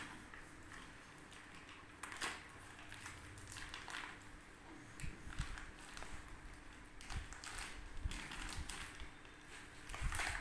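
Faint rustling and handling noises with scattered soft knocks and clicks, over a low steady hum.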